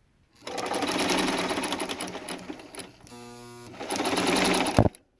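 Singer Fashion Mate 327 sewing machine stitching at speed, a rapid mechanical rattle. About three seconds in it slows to a brief steady motor hum, then speeds up again and stops sharply near the end.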